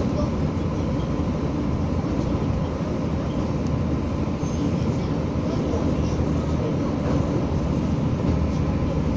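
Materfer passenger railcar running along the track: a steady, even rumble of the car and its wheels on the rails.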